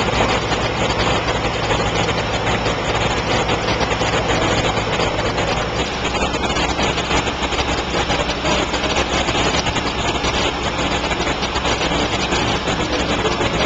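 Boat engine running steadily, a constant low drone under an even wash of noise.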